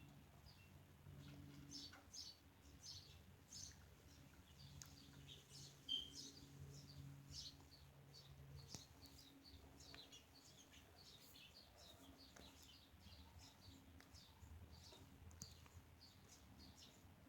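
Pet budgerigars chattering quietly in a run of many short, quick chirps and warbles, over a faint steady low hum.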